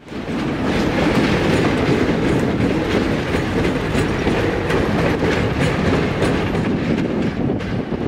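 Diesel-hauled train passing close by: a steady locomotive and rolling rumble with the wheels clicking over rail joints.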